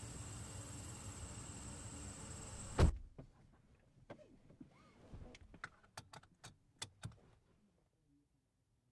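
Crickets trilling steadily against outdoor night noise, cut off by a car door slamming shut about three seconds in. Then, inside the closed car, a run of small clicks and knocks, fading to near silence.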